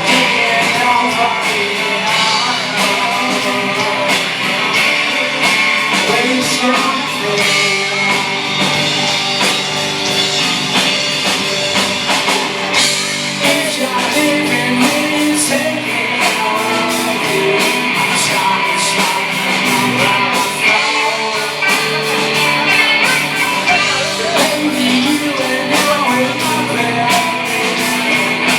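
A rock band playing live, with a singer over electric guitars and a drum kit, the drums keeping a steady beat.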